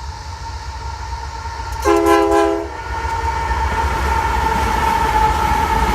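A diesel locomotive horn blows one short, loud blast about two seconds in, over a steady rumble and a held high tone.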